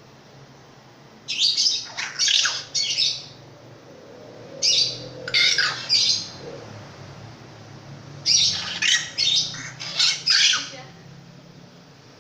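Pentet raja, a long-tailed shrike, calling loudly with harsh, rasping squawks in three bursts of three to six calls each: about a second in, near the middle, and in the second half.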